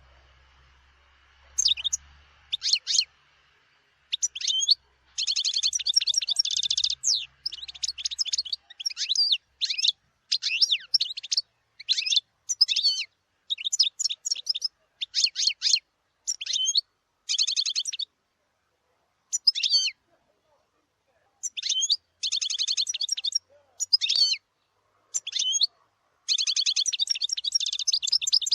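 European goldfinch singing: quick high twittering phrases broken by short pauses, with several longer rapid trills along the way.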